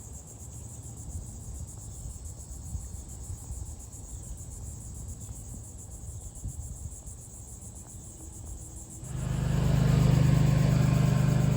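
Insects trilling steadily in the marsh, then about nine seconds in a motor vehicle's engine comes up loud with a steady low drone and keeps running.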